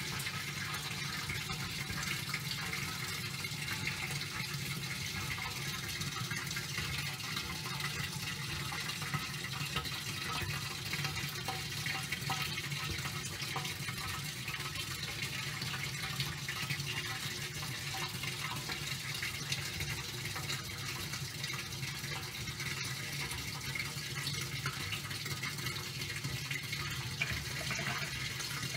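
Top-loading washing machine washing a load of towels: water moving steadily in the tub over a low, even hum.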